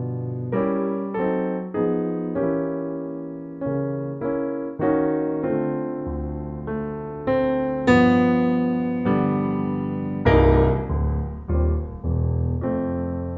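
Slow solo piano music: notes and chords struck one after another, each ringing out and fading, with a deep bass chord a little after ten seconds in.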